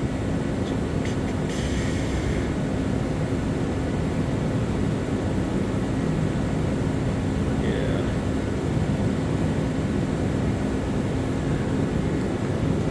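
Steady low mechanical drone with a faint constant hum through it, and a few faint clicks about a second in.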